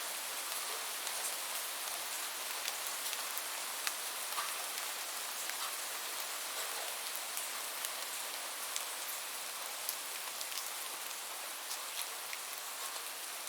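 Steady rain, a continuous hiss with scattered individual drops ticking sharply on a surface.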